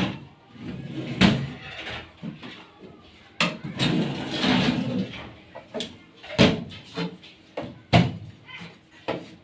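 Several sharp knocks and bangs a few seconds apart, with a stretch of scraping or sliding in the middle, from hand work on the sheet-metal body of a cotton candy machine.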